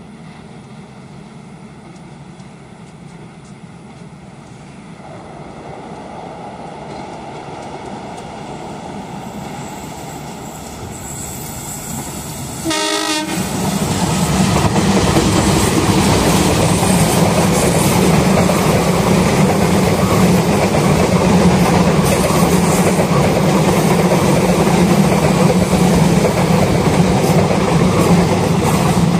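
An Indonesian main-line train hauled by a diesel locomotive approaches, growing steadily louder. The locomotive gives one short horn blast about thirteen seconds in. The train then passes close by, its engine droning loudly and its wheels clattering over the rails.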